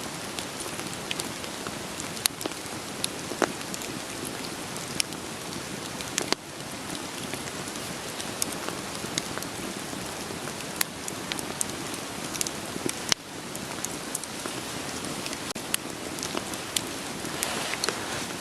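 Steady rain hiss with a wood fire crackling through it: scattered sharp pops and snaps of burning firewood, the loudest a few seconds in.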